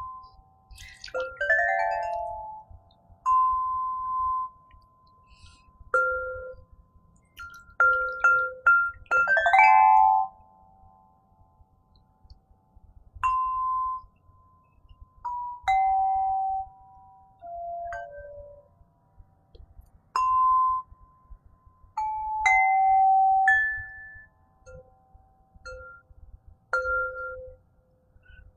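Crystal harp being played slowly: single clear, bell-like notes ring out and fade one after another, with two quick rising runs of notes, one near the start and one about ten seconds in.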